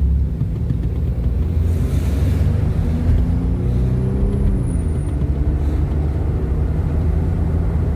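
Car engine and road rumble heard from inside the cabin. The engine note rises as the car pulls forward, then eases off about five seconds in.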